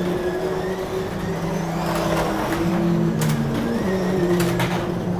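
1/24 scale digital slot cars running on the track, their motors giving several steady tones that shift up and down in pitch as the throttles are worked. A few sharp clicks sound through it.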